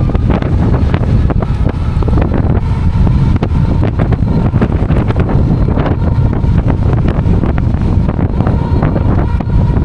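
Strong wind buffeting the microphone during an ebike ride: a loud, steady, rumbling roar with a faint thin whine underneath.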